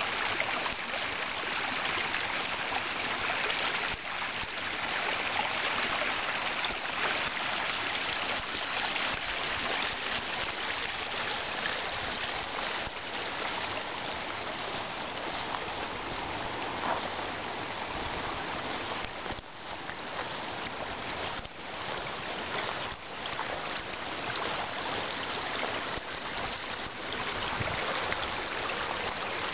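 Spring meltwater stream running, a steady rush of water with a few brief dips about two-thirds of the way through.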